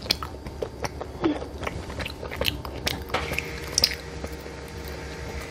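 Biting and chewing a mango jelly candy, with scattered small mouth clicks.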